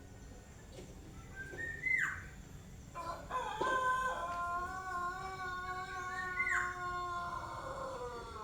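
Young black-naped oriole singing: a rising whistle that snaps sharply downward about two seconds in, then a long drawn-out call of stepped, steady notes held for about four seconds, with another quick whistled swoop partway through.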